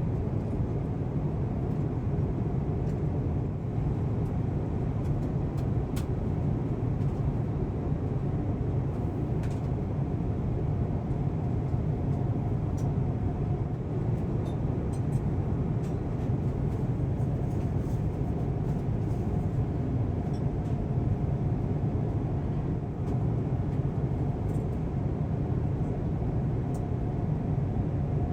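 Steady low rumble of cabin noise aboard an Airbus A350-1000 in cruise flight, from airflow over the fuselage and the engines, with a faint steady hum above it.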